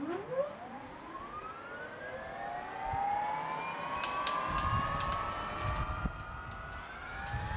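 English Electric Lightning's Rolls-Royce Avon turbojet starting up: a whine of several tones rising steadily in pitch as the engine spools up, then levelling off. A run of sharp ticks and a low rumble come in about halfway.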